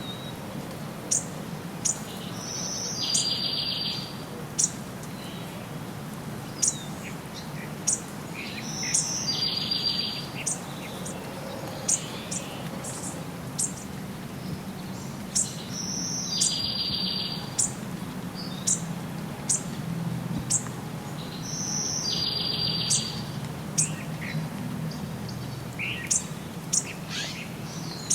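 Songbirds chirping and singing: many short, high chirps, with one song phrase ending in a buzzy trill that repeats about every six to seven seconds, over a low, steady background rumble.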